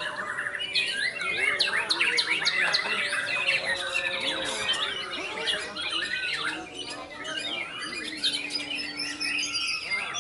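Several songbirds singing at once, with white-rumped shamas among them: many overlapping rapid whistles, chirps and trills, getting louder just under a second in.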